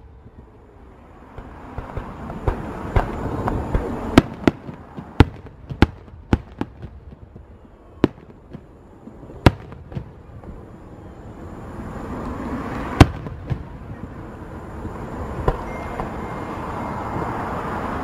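Aerial fireworks display: shells bursting overhead in an irregular run of sharp bangs, a dozen or more, the loudest about thirteen seconds in, with a hissing wash that swells between them.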